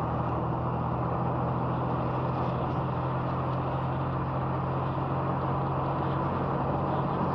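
Car driving steadily along a country road, heard from inside the cabin: an even engine hum under steady tyre and road noise.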